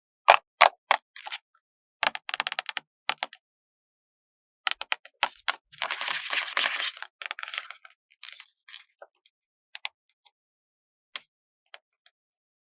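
Sticker sheets handled close to the microphone: sharp taps and clicks in quick clusters, then a dense crackling stretch around the middle as a sticker is peeled from its backing, ending in a few scattered clicks.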